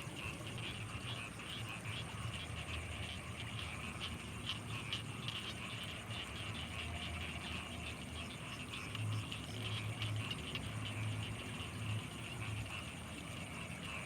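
Night chorus of frogs and insects: a dense, rapid chirring of many calls, a steady high-pitched insect whine, and deep pulsing calls that grow stronger in the second half.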